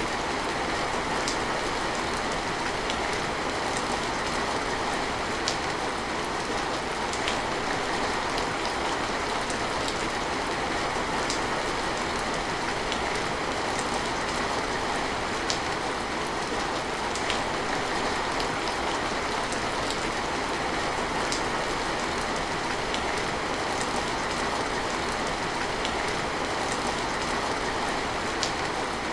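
Steady rain falling on surfaces, an even hiss with scattered sharper drop ticks standing out now and then.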